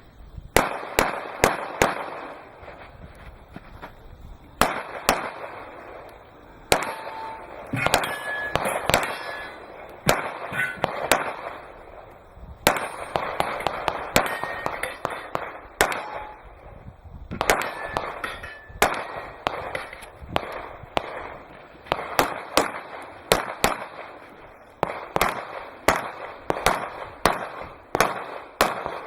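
Handgun shots fired in rapid strings, often in quick pairs, with short pauses between strings, each shot followed by a brief echo: a practical-shooting competitor running a USPSA stage.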